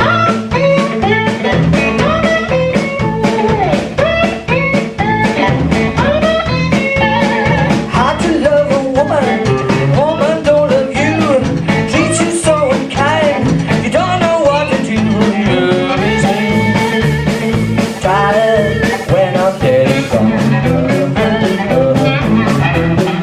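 Live band playing a blues song: a singer over guitar, bass and a steady beat.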